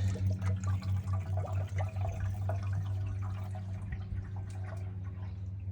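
Engine flush being poured from its bottle into the oil filler, glugging at a quick beat for about two seconds before running more smoothly, over a steady low hum.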